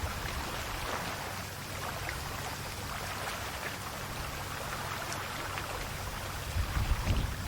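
Calm sea waves washing and fizzing against the shore in a steady hiss with small crackles. A louder low rumble sets in near the end.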